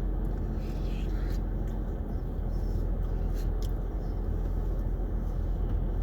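Steady low rumble inside a car's cabin, with a few light clicks of a plastic spoon against the Blizzard cup, about a second in and twice more past the halfway point.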